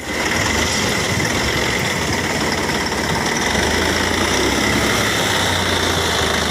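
Massey Ferguson 9500 Smart tractor's diesel engine running steadily.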